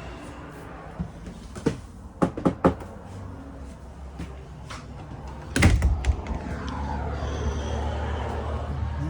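Door and latch sounds inside a travel trailer: a few sharp clicks, then one louder bang like a door swinging shut about halfway through, followed by a steady low rumble.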